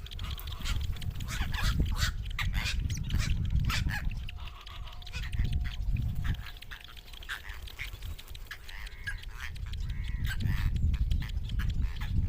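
Young birds of a fish-eating species calling repeatedly in short, harsh calls, over a steady low rumbling noise.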